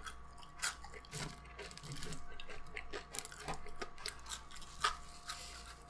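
A person chewing KFC fries and fried food up close, with irregular wet mouth clicks and small crunches, over a faint steady hum.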